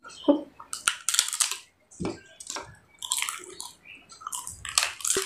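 Crisp papad crunching as it is bitten and chewed, with wet mouth sounds from eating rice and dal by hand, in irregular bursts.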